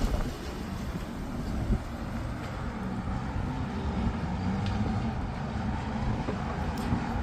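Storm wind buffeting the microphone over steady city traffic noise, with a low engine hum in the second half.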